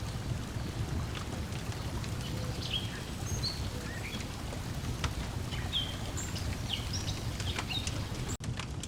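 Lakeside nature ambience: a steady low wash of water lapping at the shore, with scattered short bird chirps and the small pops and clicks of a crackling wood fire. The sound cuts out for an instant near the end.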